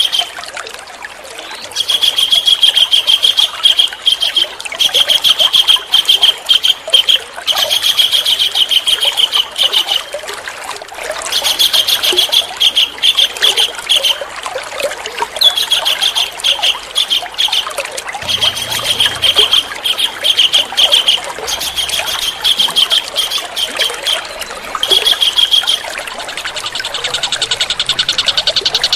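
A songbird singing phrases of fast, rapidly repeated notes, each phrase lasting a second or two with short pauses between, over a steady trickle of running water.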